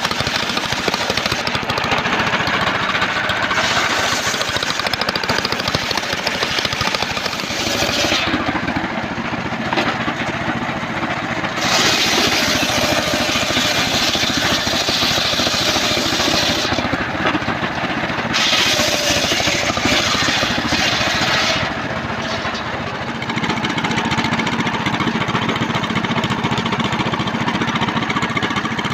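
Engine-driven homemade circular sawmill running continuously while its blade saws through trembesi timber. A high hissing cutting noise rides over the engine drone and drops away briefly three times, about a third of the way in, past halfway and again a little later.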